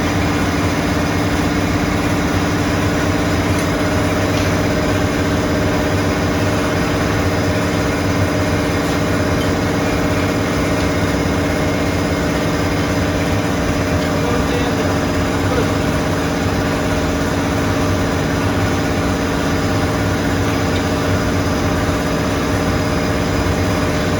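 Heavy machinery running steadily, an engine-like hum with constant pitch and no change in speed.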